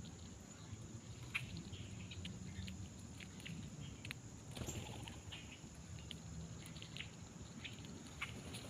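Small animals foraging: irregular light clicks and taps, several a second, over a steady low rumble.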